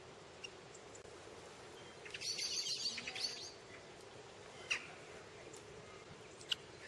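Bird calls: a rapid, high-pitched chattering lasting just over a second, starting about two seconds in, then two short chirps, one of them falling in pitch.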